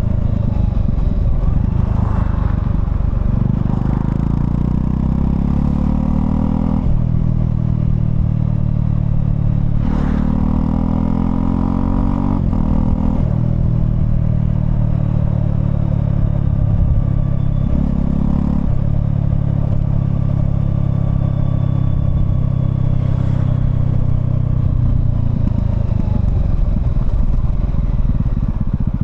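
Honda CL250's 250 cc single-cylinder engine pulling under way, rising in pitch as it accelerates, dropping at each upshift, then holding steady at cruising speed. The pitch falls away near the end as it eases off.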